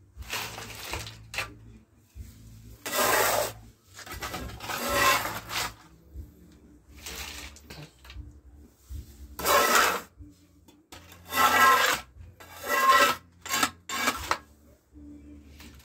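A series of rough rasping scrapes, some short and some about a second long, with pauses between them.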